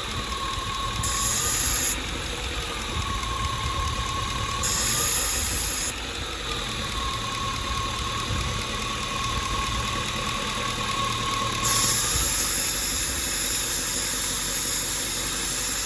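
LS V8 swapped into a BMW E38, idling quietly through its new custom exhaust with a steady low rumble. A faint high whine sits over it, fading out and returning several times.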